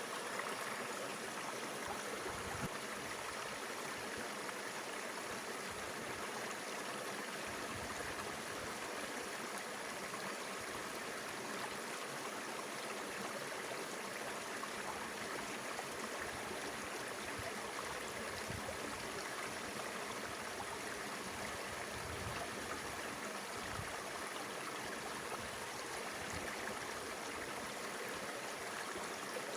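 Mountain river flowing, a steady, even rush of water that never lets up.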